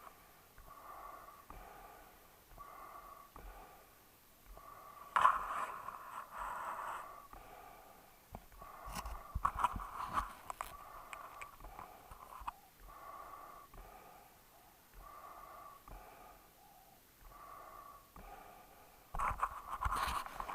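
A dog breathing noisily through its nose, about one breath a second. It turns louder and rougher a few times, about five seconds in, around nine to ten seconds, and near the end.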